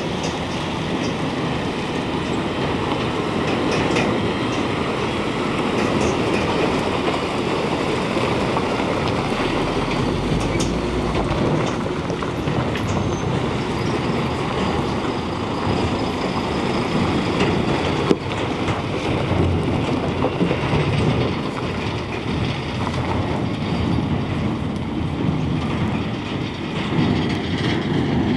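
Truck driving over a rough unpaved road: steady engine and road noise with constant small knocks and rattles, and one sharper knock about two-thirds of the way through.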